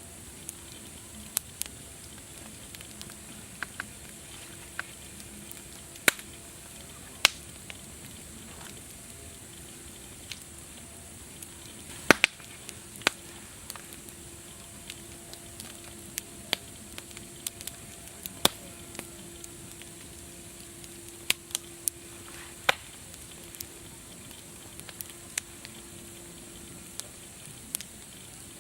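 Wood fire crackling: irregular sharp pops and snaps, some much louder than others, over a steady soft hiss.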